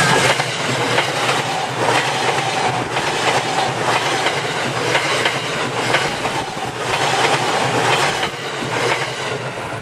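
A JR East E353 series electric train passes close by at speed: a steady rumble of wheels on rail, with repeated clickety-clack strokes roughly once a second. The sound falls away near the end as the last car goes by.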